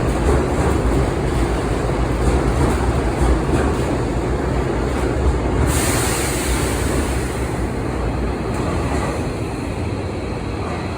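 Hanshin 5700 series electric train running, a steady rumble of wheels and motors with faint repeated clicks. A little past halfway a sudden hiss comes in for about three seconds, and the sound eases off slightly near the end.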